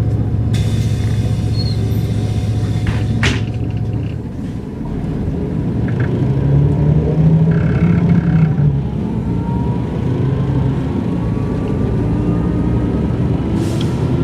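Mercedes-Benz O405 N² city bus with a Voith automatic gearbox, heard on board while driving: a steady engine drone that drops off briefly about four seconds in, then pulls harder again with a slowly rising whine as the bus gathers speed.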